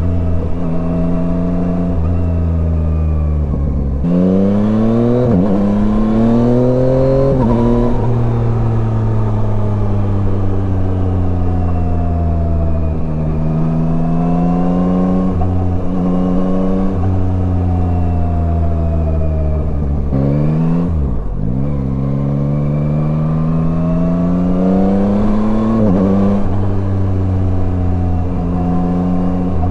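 Yamaha Tracer 9's inline-three engine under way, rising in pitch as it accelerates through the gears, with short dips at the shifts, then holding steady and easing off. The pattern repeats: a sharp drop in revs about a third of the way in, and another two-thirds of the way in, each followed by a climb.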